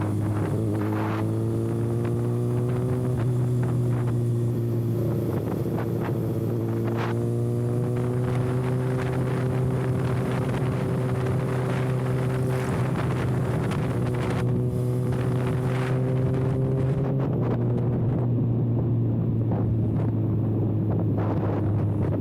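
Kawasaki ZX-6R inline-four running with its exhaust silencer canister removed, pulling steadily while riding, its pitch climbing gently a few times in the first half. Wind rush on the microphone throughout.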